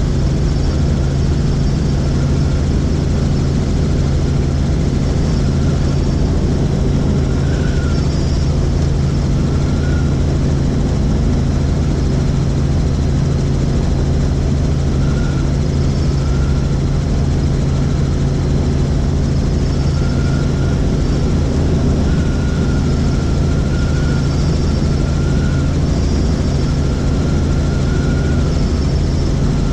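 Helicopter in flight: a loud, even drone of engine and rotor.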